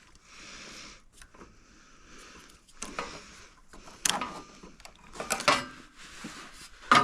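Hand-tool work on a snowblower: scattered clicks and short scraping noises, with the sharpest clicks about three, four and five seconds in.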